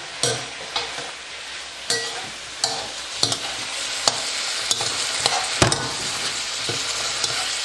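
Chicken and raw prawns sizzling in oil in a hot wok as they are stir-fried, with a utensil clicking against the pan now and then. The sizzle grows louder about three seconds in.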